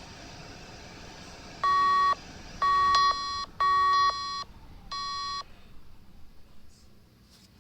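Stacked clothes dryer running, then playing a short electronic melody of about six beeping tones at different pitches, its end-of-cycle signal. The running noise fades away after the tune.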